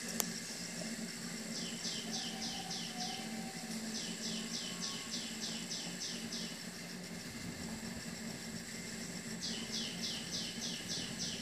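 A bird calling in three runs of short, quick, downward-sliding notes, about five a second, over a steady high whine and a low hum.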